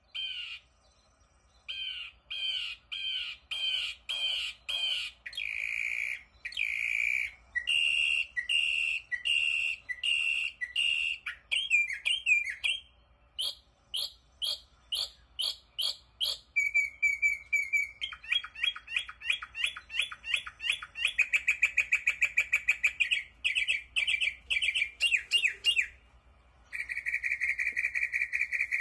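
A songbird singing a long run of varied phrases, each note repeated several times at a quick even rhythm before the pattern switches to a new one, with a trill near the end.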